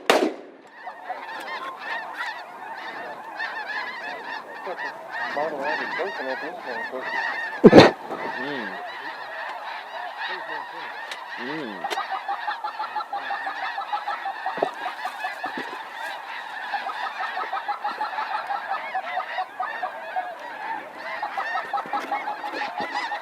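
Many snow geese calling together in a steady, dense chorus of honks, with a single loud shotgun blast about eight seconds in.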